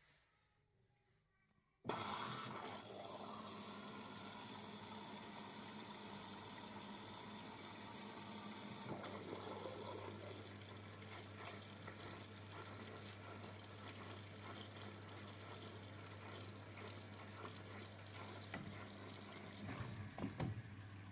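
Washing machine filling with water: water starts rushing in suddenly about two seconds in and runs on steadily with a low hum underneath, the hum deepening about nine seconds in.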